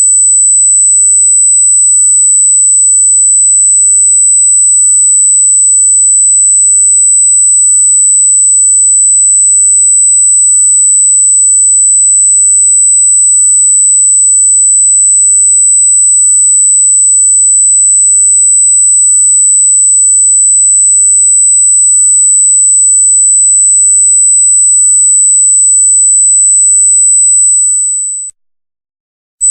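Loud, steady electronic sine tone at a single very high pitch, held unchanging for nearly half a minute. It fades briefly and cuts off about a second before the end, then starts again.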